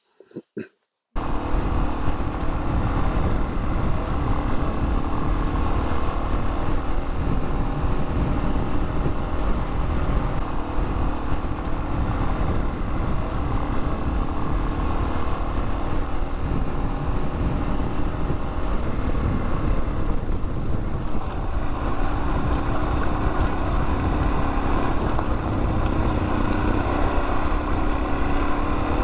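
Dual-sport motorcycle engine running steadily. It starts abruptly about a second in, after two brief faint sounds.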